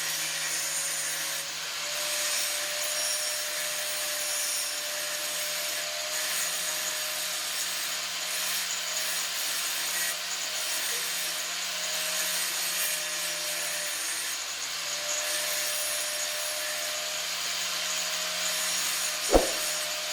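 Steady abrasive rubbing of a scrap metal piece being shaped into a tyre lever. A single sharp knock comes near the end.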